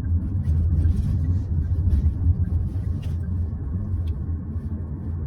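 Steady low road and tyre rumble heard inside the cabin of a moving 2024 Hyundai Santa Fe hybrid.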